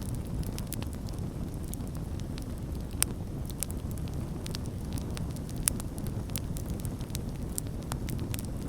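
Wood campfire burning with a steady low rumble and frequent sharp crackles and pops, two louder pops about three seconds in and near the middle.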